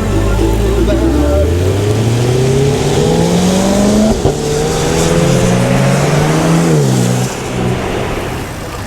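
A motor vehicle accelerating in traffic, its engine note climbing steadily for a couple of seconds, then holding and easing off. A single sharp click comes about four seconds in.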